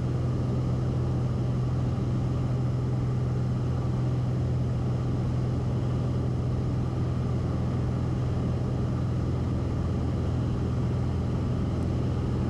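Cessna 172RG's engine and propeller droning steadily at takeoff and climb power, heard inside the cabin.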